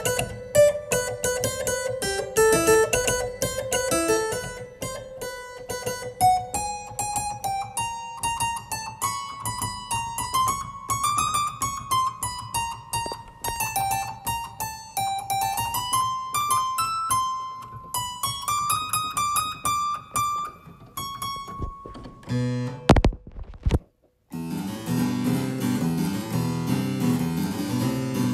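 Harpsichord playing a fast run of crisp plucked notes, the melody climbing and falling back. About three-quarters through it breaks off with a sharp knock and a moment of silence, then resumes with dense lower notes.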